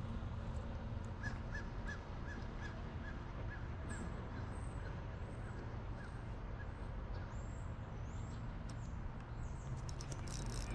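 Steady low outdoor background noise with faint bird calls. A quick run of short, evenly spaced high notes fades out early, then a few thin, very high chirps follow.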